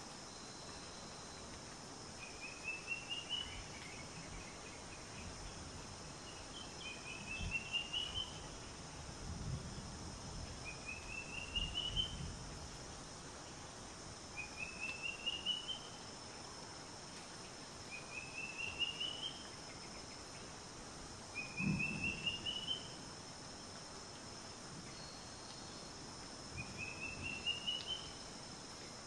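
A bird repeating a short call of quick notes rising in pitch, about once every four seconds, over a steady high-pitched insect hiss. A few low thuds come in between, the loudest a little past the middle.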